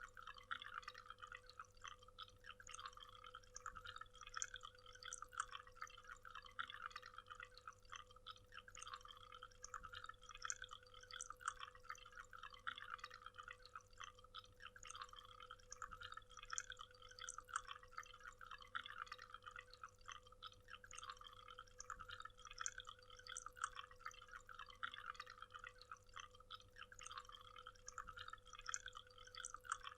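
Waterfall: a faint, continuous patter of splashing and trickling water, with a steady low hum underneath.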